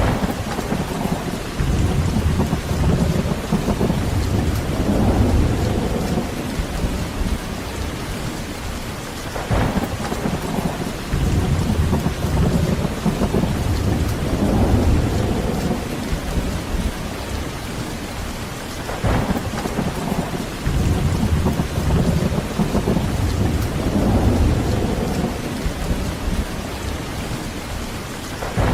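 Heavy rain falling steadily, with rolling thunder rumbling low and swelling three times, roughly every nine to ten seconds, with a brief sharp crack about a third and two thirds of the way through.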